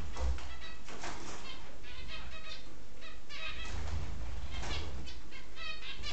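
Budgerigars chirping in quick runs of short calls, with a few brief rushes of wing flapping.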